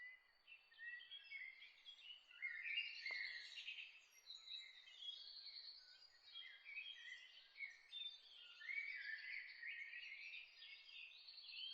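A quiet chorus of songbirds chirping and trilling, many short calls overlapping, over a faint steady hiss of outdoor air. A single brief tick is heard about three seconds in.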